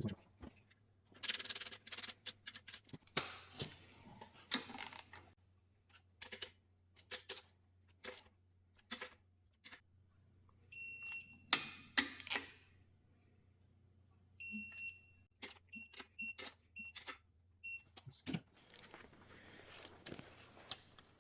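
Metal clicks and knocks of tools and small engine parts being handled during engine assembly. An electronic beeper sounds at one high pitch: a beep about 11 seconds in, a longer one a few seconds later, then a quick run of short beeps.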